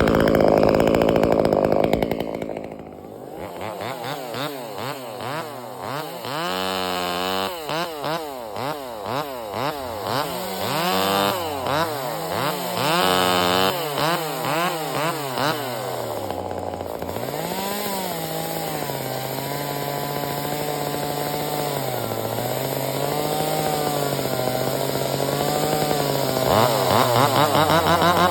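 Chainsaw engine running loud for the first two seconds, then blipped repeatedly, its pitch rising and falling with each throttle pull, before settling to an uneven, wavering idle, with revving again near the end.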